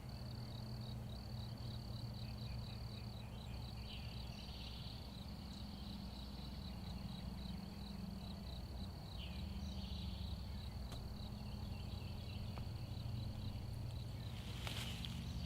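A high, steady pulsing insect trill over a low background rumble, with a brief burst of noise near the end.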